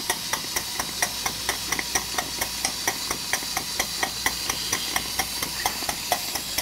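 Tiny Power Ajax steam engine running steadily on steam: an even clicking, about four beats a second, over a steady steam hiss.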